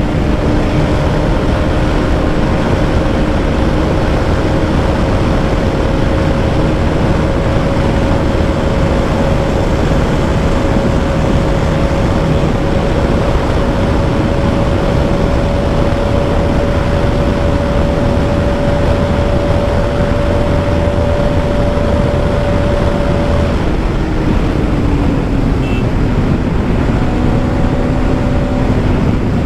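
Bajaj Pulsar NS200's single-cylinder engine running flat out at high speed in top gear, under a loud rush of wind and road noise. The engine note holds steady, creeping up slightly, then falls away about six seconds before the end.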